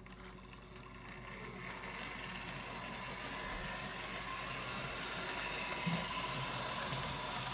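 HO-scale model diesel locomotive running on DC track and pulling a string of cars: the steady whine of its small electric motor with light clicking of wheels over the rails, growing gradually louder.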